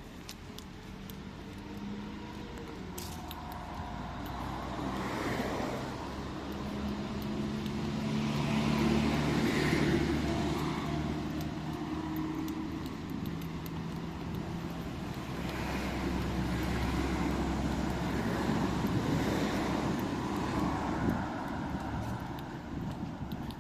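Motor vehicle engines running and passing on a street, with road traffic noise that swells twice as vehicles come close.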